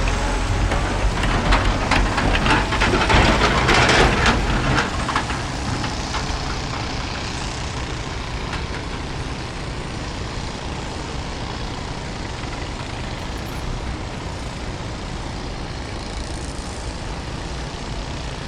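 Waterfall pouring over rock: a steady rushing of falling water, with a spell of louder crackling in the first five seconds.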